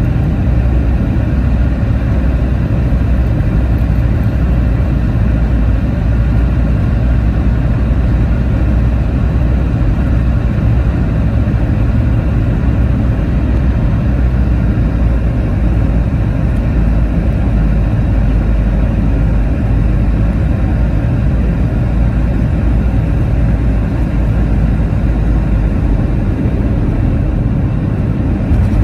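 Steady cabin noise inside a Boeing 717: a loud, even rumble from its rear-mounted Rolls-Royce BR715 engines and the airflow.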